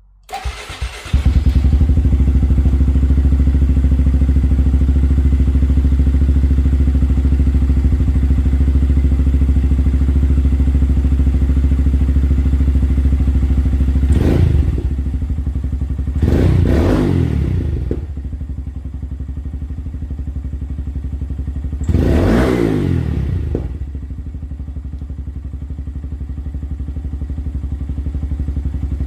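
Honda Grom 125's single-cylinder four-stroke engine through a Yoshimura RS9-T exhaust. It starts up about a second in and idles steadily. It is then blipped three times, a short rev and then two longer revs that rise and fall, settling back to idle each time.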